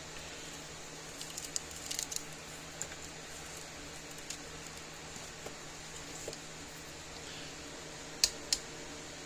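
Small parts being handled at a workbench: scattered light clicks and taps, a cluster of them between about one and two seconds in, then two sharp clicks close together near the end, over a steady fan-like hum.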